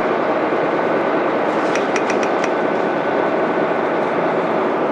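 Mitsubishi Fuso Aerostar bus's 6M70 six-cylinder diesel running with road noise, heard from inside the bus under way. About two seconds in, a quick run of four light metallic clinks.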